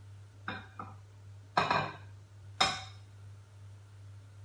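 Nonstick frying pan knocking and clanking against the gas hob's metal pan support as it is tilted to spread the oil: two light knocks, then two louder ringing clanks.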